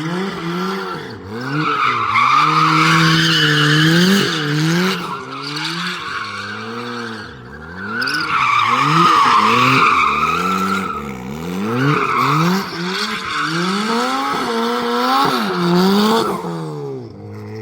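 Turbocharged Toyota 2ZZ four-cylinder engine in a Lotus Elise revving up and down repeatedly while the tyres squeal through donuts, with the longest squeals about two and eight seconds in. Near the end the revs drop and the engine settles to a steady idle.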